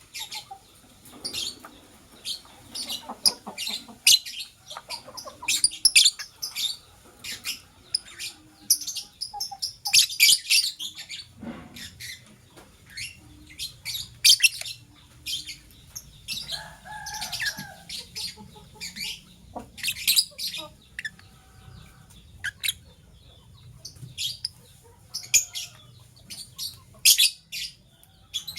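Lovebirds, a blue opaline and a masked (personata) lovebird, chirping: short, shrill, high-pitched chirps come rapidly and irregularly throughout, with a few lower, fuller calls about two-thirds of the way in.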